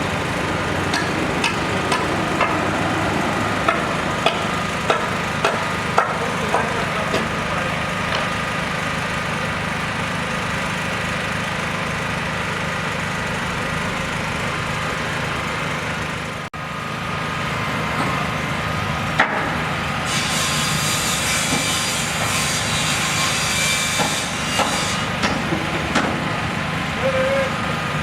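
Construction machinery engine running steadily, with a series of sharp knocks and hammer-like impacts from the work during the first several seconds and a few more near the end. A hiss starts about twenty seconds in and lasts a few seconds.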